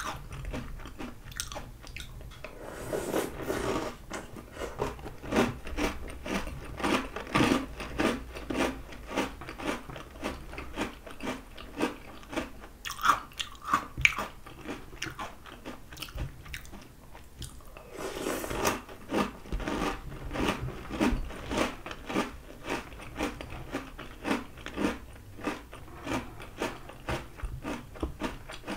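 Someone chewing crunchy Oreo O's cereal: a steady run of crunches, several a second.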